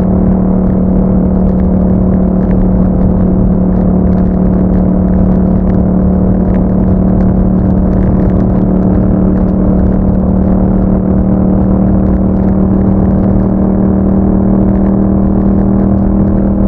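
2021 Yamaha MT-07's 689 cc parallel-twin engine running through an Akrapovic exhaust, held at a steady engine speed while the motorcycle is ridden at a constant pace.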